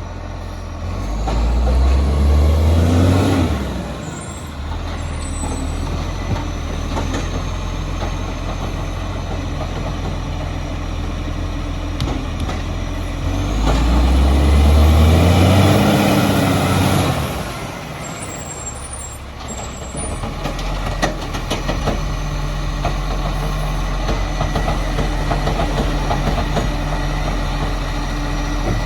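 Recycling truck engine idling, revving up twice for a few seconds each, about a second in and again about halfway through, with a brief high squeal after each rev.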